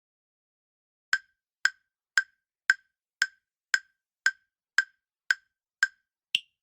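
Quiz countdown timer sound effect: eleven short woody ticks, about two a second, starting about a second in; the last tick is higher-pitched.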